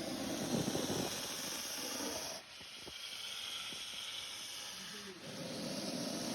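Spectacled cobra hissing in long breaths. A loud hiss breaks off about two and a half seconds in and is followed by a quieter hiss. Another loud hiss starts near the end.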